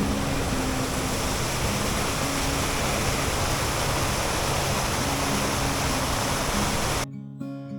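Steady, loud rush of a waterfall, with faint low musical notes underneath. About seven seconds in, the water sound cuts off abruptly, leaving strummed acoustic guitar music.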